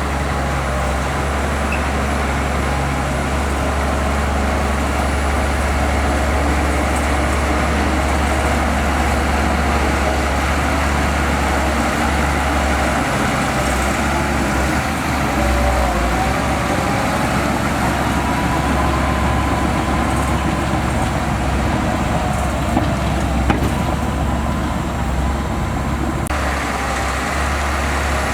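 Heavy diesel engine of earthmoving machinery running steadily with a low drone, its pitch shifting a little midway through; a short knock about 23 seconds in.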